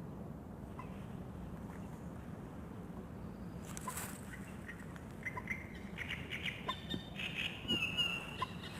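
Birds calling and chirping over a steady low outdoor background, the calls coming thick and fast in the second half with one held high note near the end. A brief noise about four seconds in.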